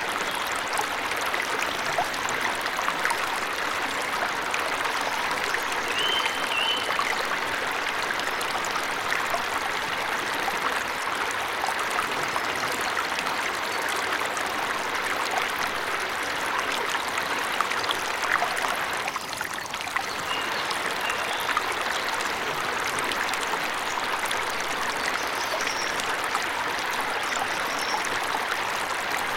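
Steady rush of falling water from a forest waterfall, with a few faint, short high bird chirps: about six seconds in, around twenty seconds in, and near the end.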